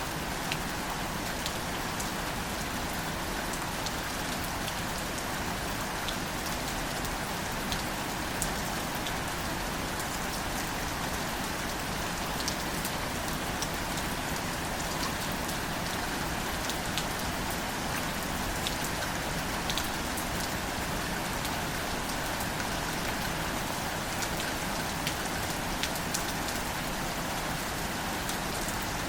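Steady gentle rain falling on wildflowers and leafy plants: an even hiss with scattered close drop ticks.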